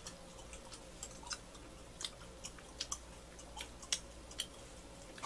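Faint close-up chewing of butter-toasted gijeongtteok (Korean fermented rice cake), heard as scattered soft crunches and clicks from the crisp toasted crust, a few irregular ticks each second.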